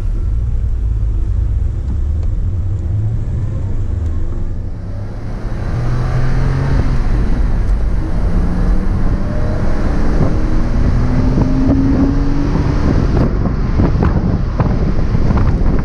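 2001 Porsche Boxster's flat-six engine pulling away, low and steady at first, then rising in pitch from about five seconds in as the car accelerates. Wind rushes over the open cockpit, growing with speed.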